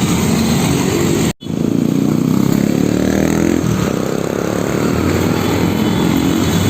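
Road vehicle engines running close by, with a brief sudden cut in the sound about a second and a half in.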